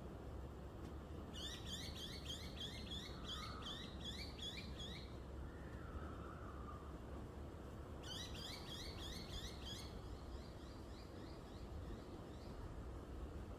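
A bird singing: two bouts of quick, evenly repeated high chirps, the first starting about a second in and lasting about four seconds, the second starting about eight seconds in and trailing off fainter, over a steady low background hum.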